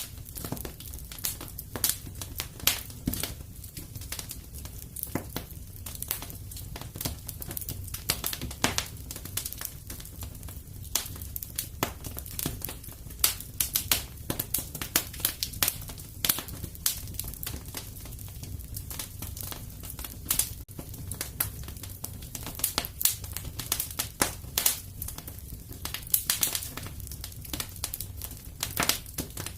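Wood fire crackling and popping in a fireplace, with irregular sharp snaps over a steady low rumble of the flames.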